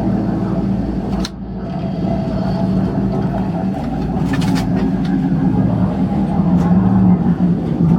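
An engine running steadily, a low even drone, with a brief break a little over a second in and a few light clicks.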